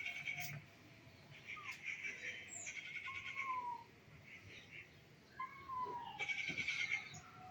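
Pet baby parrot screaming: bouts of harsh, buzzy squawks, three times, with short falling whistles in between.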